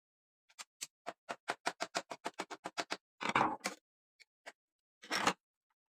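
A quick run of about fifteen sharp mechanical clicks that speed up, followed by two short scraping rasps with a couple of faint clicks between them.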